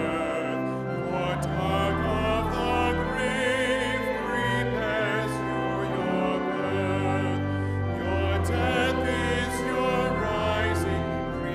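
Sacred music: singing with a wide vibrato over sustained, held low accompaniment notes.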